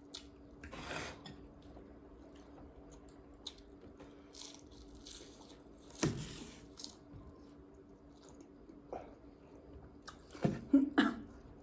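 Close-miked chewing and other wet mouth sounds from a person eating, with a louder burst about 6 s in and a cluster of loud bites near the end, over a faint steady hum.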